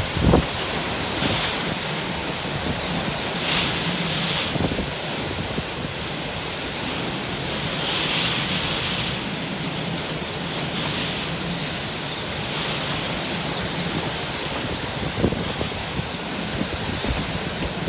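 Typhoon winds blowing hard in a steady rush that swells in gusts every few seconds, with a few brief low thumps.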